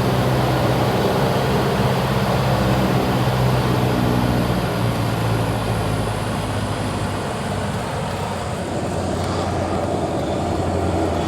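Cessna 172's piston engine and propeller droning steadily, heard from inside the cabin, easing off slightly in the second half.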